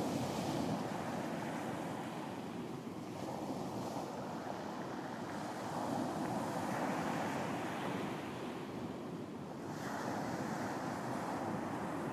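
Sea surf washing onto a beach, a steady rush of water that swells and falls back every few seconds as waves break, with some wind.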